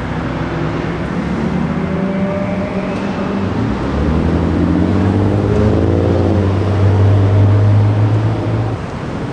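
A car's engine and exhaust running at low revs, a deep drone that grows louder from about three and a half seconds in, its pitch rising and then falling back around the middle.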